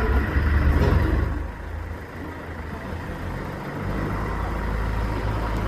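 A low, steady machine rumble that drops in level about a second and a half in and builds back up near the end.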